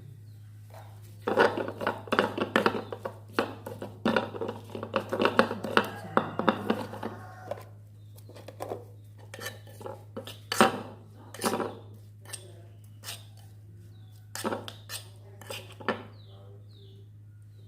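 Kitchen utensil clattering and knocking against a dish while sambal is being prepared: a quick, busy run of knocks for about six seconds, then scattered single knocks.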